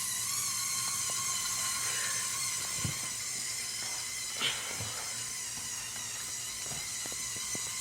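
Battery-powered Lego Technic electric motors and gearing of a toy tractor whining steadily under load as it pulls a weighted sled. The high whine starts suddenly, with a few light clicks and knocks from the drivetrain along the way.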